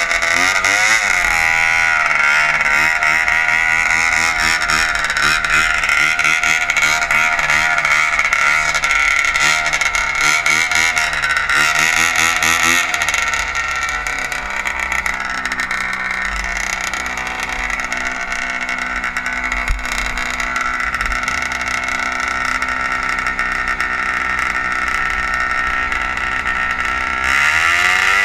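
Snowmobile engines running loud, revved up and down repeatedly for the first dozen seconds, then holding steadier and a little quieter, with a sharp climb in revs near the end.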